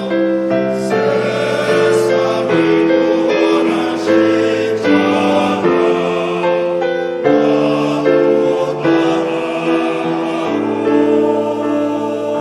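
Church choir singing a slow hymn with piano accompaniment, held chords shifting about once a second.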